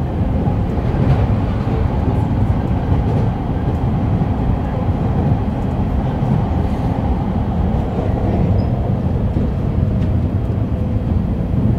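Shonan-Shinjuku Line electric commuter train running along the track, heard from inside the passenger car: a steady low rumble of wheels on rail, with a few faint clicks.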